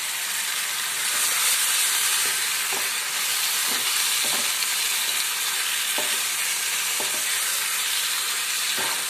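Chicken drumsticks and thick masala frying in ghee with a steady high sizzle, stirred with a wooden spatula that gives a few faint scrapes and taps against the pan.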